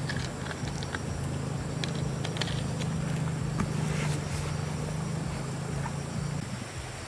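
A small engine running at a steady speed, fading out about six and a half seconds in, with scattered light clicks and knocks.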